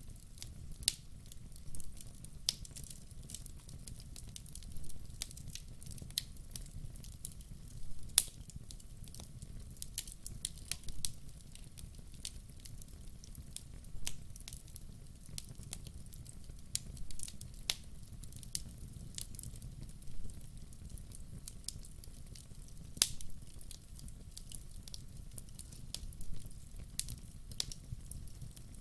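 Wood fire crackling: irregular sharp pops and snaps from the burning logs over a steady low rumble of the flames.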